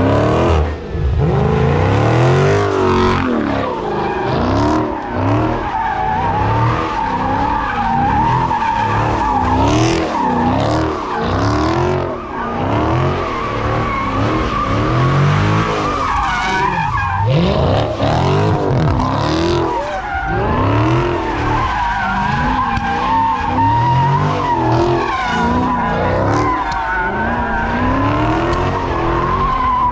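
A car spinning its tyres at length, with an unbroken tyre squeal throughout while the engine is revved up and down over and over.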